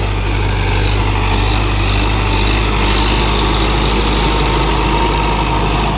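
Sonalika tractor's diesel engine running steadily while ploughing a field.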